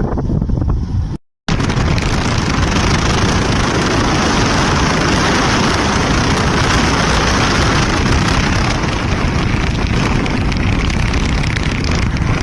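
Heavy wind buffeting on the microphone of a moving motorcycle, with engine and road noise underneath. It is steady and loud, broken by a brief dropout about a second in.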